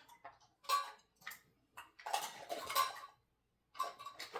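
Small hard objects, likely toy doctor-kit pieces, clattering and rattling as they are handled, in several short bursts with a longer stretch of rattling in the middle.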